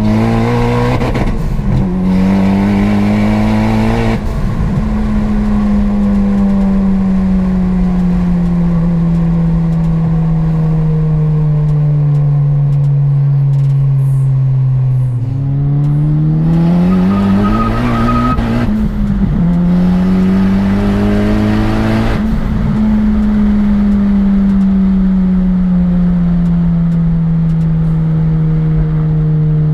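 Turbocharged Acura ILX four-cylinder engine heard from inside the cabin, running at highway speed with its note slowly falling as it cruises. About halfway the engine pulls hard, pitch climbing for a few seconds with a loud rushing noise, then briefly dips and settles back to a slowly falling cruise.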